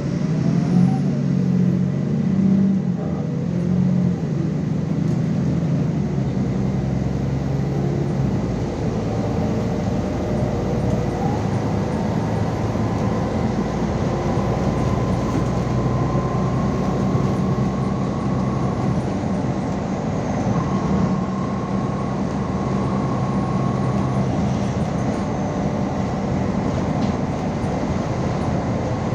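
Cabin noise of a MAZ 216.066 articulated city bus under way: a steady engine hum over road and running noise, with the engine note changing about four to six seconds in.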